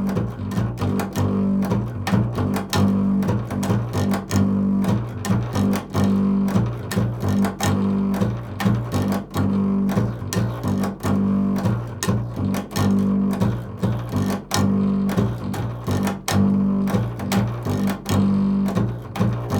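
Improvised string-instrument music: rapid plucked strings over a steady low drone.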